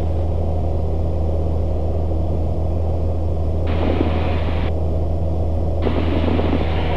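Steady drone of a Cessna 172S's four-cylinder Lycoming engine in cruise, heard through the headset intercom. Twice a block of hiss cuts in and out abruptly, about four seconds in for a second and again near the end, as the intercom channel opens.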